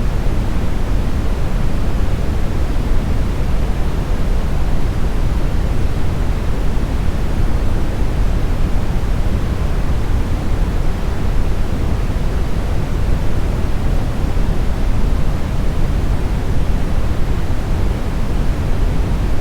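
Synthetic smoothed brown noise: a steady, deep hiss with most of its weight in the low end, without change or events.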